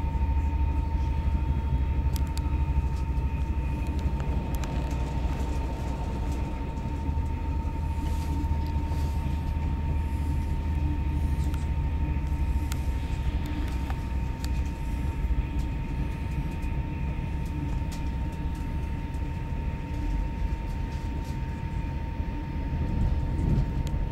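Electric passenger train heard from inside the carriage while running at speed: a steady low rumble of the wheels on the track, with one constant high whine and scattered faint clicks.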